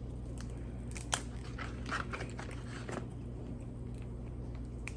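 A person eating crab close to the microphone: chewing and crunching, with a few short clicks, the sharpest about a second in, over a steady low hum.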